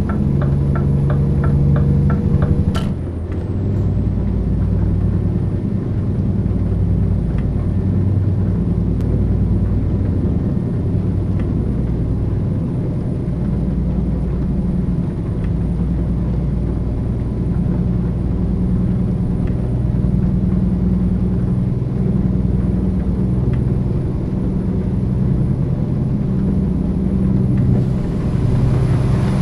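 Heavy diesel truck engine of a Scania tractor unit running steadily with a low drone whose pitch shifts now and then, hauling a heavily loaded low loader. A fast, even ticking in the first seconds ends with a sharp click about three seconds in.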